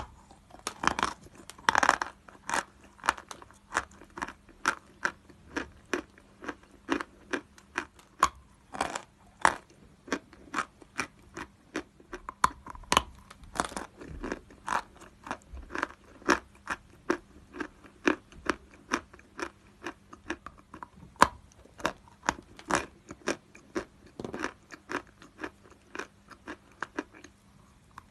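A person biting and chewing pieces of natural chalk, with a continuous run of crisp, dry crunches, a few each second.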